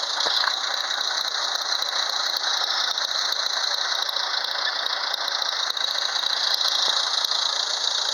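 1940 Farmall A's four-cylinder engine running steadily at part throttle on half choke, soon after a cold first start. A steady high-pitched sound sits over the engine throughout.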